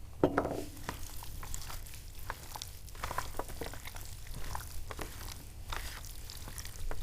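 Hands preparing food: a clunk with a short ring about a quarter second in, then scattered light clicks and rustling as garlic is handled.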